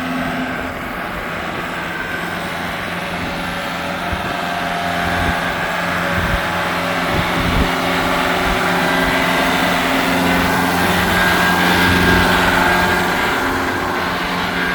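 Case 95 MFWD tractor's diesel engine running steadily. It grows louder through the middle and eases a little near the end.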